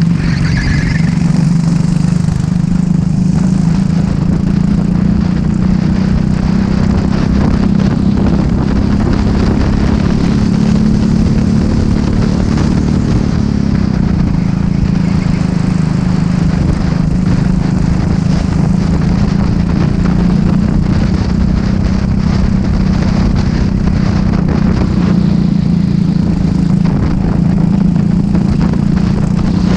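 Racing kart engine running hard at fairly steady revs, with a loud rushing noise over it; the engine note drops briefly about halfway through, then holds steady again.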